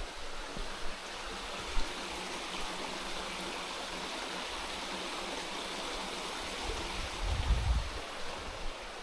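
Steady rush of running water, with a brief low rumble about seven to eight seconds in.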